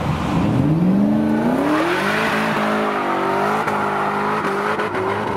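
A car engine accelerating, its pitch rising over about a second and a half and then holding steady at higher revs.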